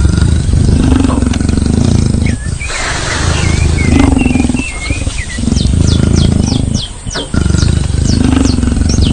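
Birds chirping, with a run of quick, repeated falling notes in the second half, over a loud low rumble that swells and fades about every two seconds.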